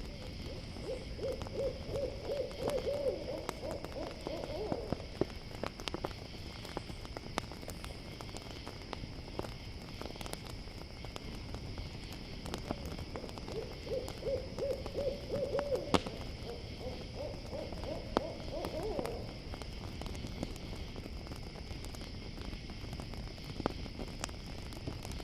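An owl calls twice, each call a trill of rapid hooting notes lasting about four seconds and rising slightly at the end, the second coming about eight seconds after the first. Behind it runs a steady cricket chorus, with the scattered crackle of a campfire.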